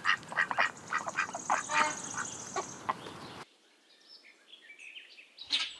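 Duck quacking in a rapid run of short quacks, about four a second, that stops about three and a half seconds in. Another run of bird calls starts just before the end.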